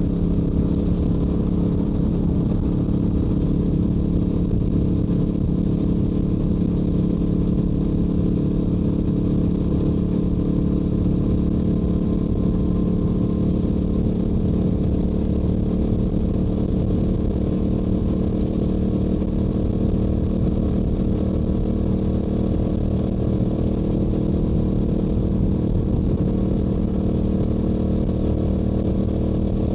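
Stock exhaust of a Yamaha YZF-R7's parallel-twin engine, running at a steady cruising speed on the highway with no change in pitch.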